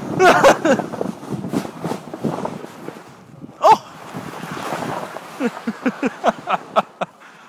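Wind rushing over the microphone and a steady hiss of a snow tube sliding over snow, broken by short voice-like calls: one a little past halfway and a quick run of them near the end.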